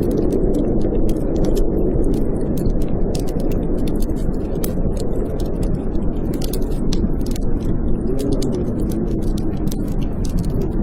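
Blizzard wind howling in a low moan whose pitch wavers up and down, over a wood fire in a fireplace crackling with many quick sharp snaps.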